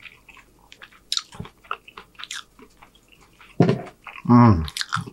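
Close-miked chewing of a saucy piece of bourbon chicken, with wet clicks and smacks of the mouth. Near the end, two short wordless voiced sounds.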